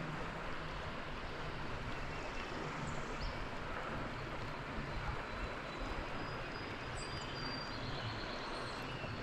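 Steady hiss of rain falling on a creek, mixed with running water, with a few faint high chirps above it.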